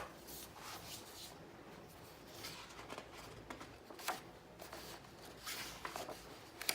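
Faint rustling and handling of paper: book pages being turned, with a few soft scattered clicks and brushes.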